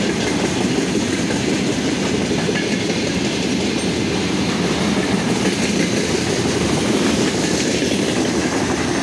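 Freight train's wagons rolling past while the train coasts, a steady loud rumble and clatter of wheels on the rails.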